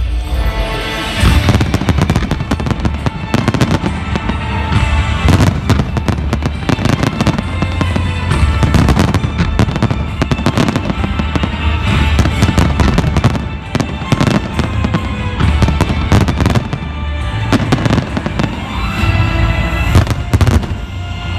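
Fireworks bursting in rapid, irregular bangs over loud music with a heavy bass.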